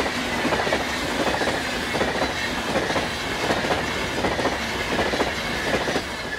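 Passenger train passing at speed over a level crossing, its wheels clattering rhythmically over the rail joints. The noise drops away suddenly near the end as the last coach clears.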